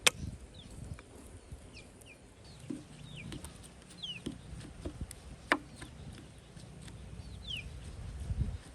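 Chickens clucking, with short high peeps that fall in pitch repeating every second or so. A few light clicks, and one sharp knock about five and a half seconds in.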